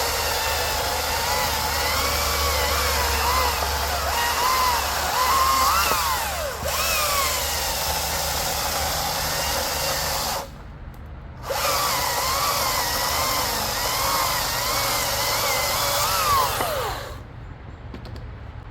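Battery-powered electric chainsaw cutting through an oak log, its motor whine wavering and dipping under load. The saw stops for about a second, about ten seconds in, then runs again and cuts on before spinning down near the end.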